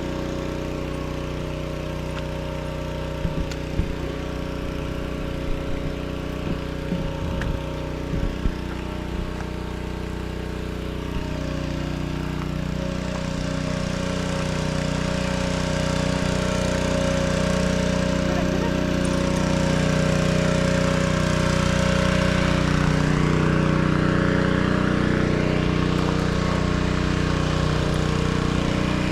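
Small engine-driven machine running steadily at an even pitch while the hot spring pools are being cleaned; it grows louder from about halfway through. A few sharp knocks come in the first third.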